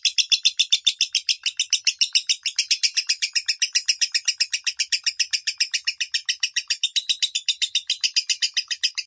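Lovebird singing its 'minor' voice: an unbroken run of rapid, high, sharp chirps, about nine a second.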